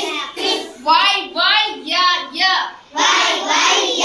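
Children's voices chanting English phonics sounds aloud in chorus, in a run of short sung-out syllables.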